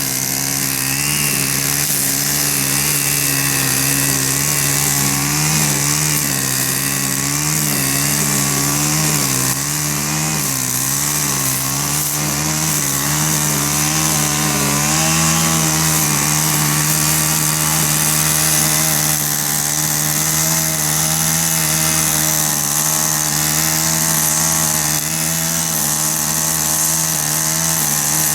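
Gas weed eater (string trimmer) running hard while cutting grass, its engine pitch wavering up and down for a while, then holding steadier from about halfway.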